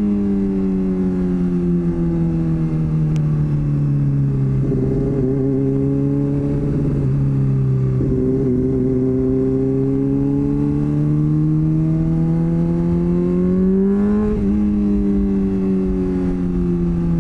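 Honda CBR600RR inline-four with an aftermarket MGP exhaust running under way. The engine note drops over the first few seconds and holds steady. It then climbs gradually, hitches briefly about fourteen seconds in, and eases off again near the end.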